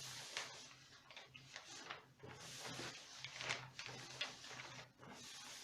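Faint rustling of paper and light taps on cardboard as white paper is glued onto a cardboard-box fireplace, over a low steady hum.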